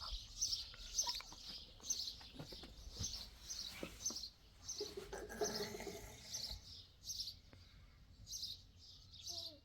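A small bird chirping over and over, short high chirps about two or three a second, with a few faint knocks in the first few seconds.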